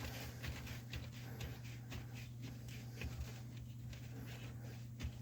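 Faint scattered clicks and knocks of a plastic sink drain pipe and its slip nut being fitted and hand-tightened onto a garbage disposal's outlet, over a steady low hum.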